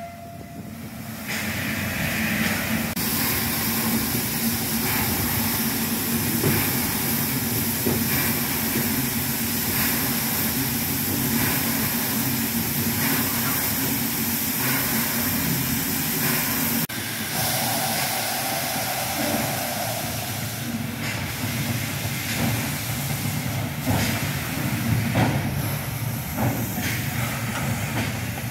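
MÁV class 424 steam locomotive hissing steam steadily, with a low hum beneath. The sound changes abruptly about 17 seconds in, and scattered knocks and clanks come through in the last several seconds.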